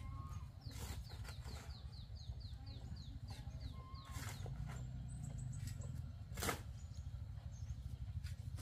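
A bird calling: a run of about a dozen quick, high, descending chirps lasting about three seconds, over a steady low rumble, with a few sharp knocks, the loudest about six and a half seconds in.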